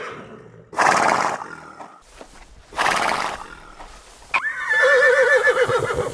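A horse whinnying: two short breathy blasts, then a long, quavering whinny starting about four and a half seconds in.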